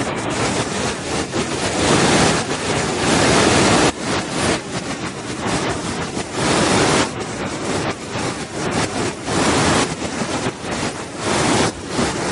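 Waterfall: a loud, steady rush of falling water whose loudness swells and eases every couple of seconds.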